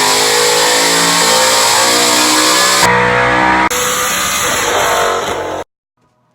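Whipple-supercharged 2018 Mustang GT's stock 5.0 Coyote V8 revving hard on a dyno, rising in pitch, with sudden jumps to other parts of the run and falling pitch as it comes off the throttle. The sound cuts off abruptly near the end.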